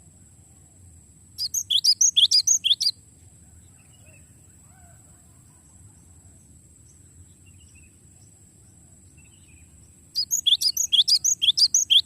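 Cinereous tit (gelatik batu) singing a fast rolling trill of about ten sharp, high notes lasting about a second and a half, a little over a second in. A second roll starts near the end.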